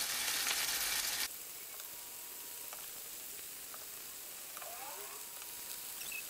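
Sliced mushrooms and whole cherry tomatoes sizzling in hot olive oil in a frying pan, with a few faint ticks as the tomatoes go in. The sizzle is louder for about the first second, then drops suddenly to a quieter steady sizzle.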